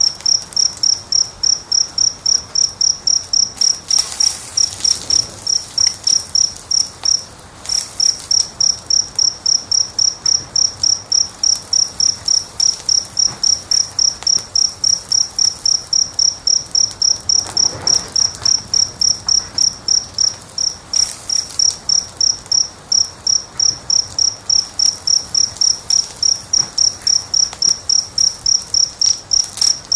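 A cricket chirping steadily, about three high chirps a second, with a short break about seven seconds in. Under it, a wood fire gives a few soft crackles and pops.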